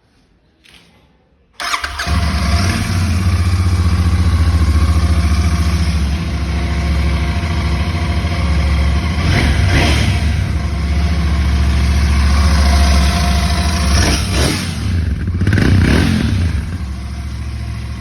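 Royal Enfield Interceptor 650's parallel-twin engine starts about a second and a half in, then idles through its exhaust with a few short throttle blips in the second half.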